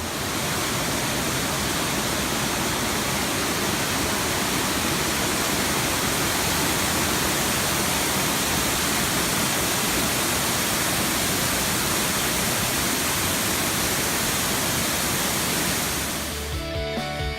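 Waterfall rushing: a loud, steady, unbroken roar of falling water. Background music comes back in near the end.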